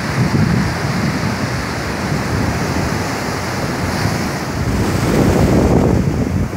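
Ocean surf breaking and washing on the beach, with wind buffeting the microphone. The surf swells louder about five seconds in.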